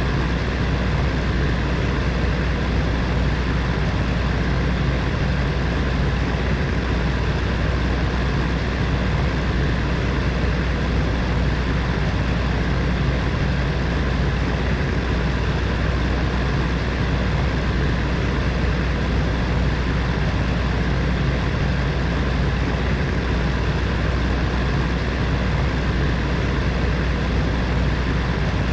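Space heater's fan running steadily: an even whooshing hum with a low drone and a few faint steady tones, no changes.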